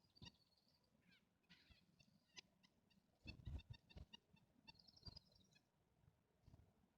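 Faint calls of small songbirds from a mixed flock of chickadees, nuthatches and titmice: short high notes, with a quick run of repeated notes about three seconds in and another about five seconds in. Low soft thumps come and go underneath.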